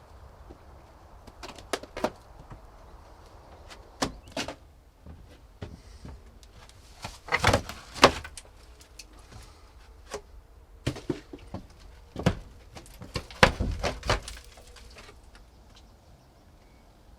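Irregular knocks and clunks, some single and some in quick clusters, the loudest groups about seven and thirteen seconds in.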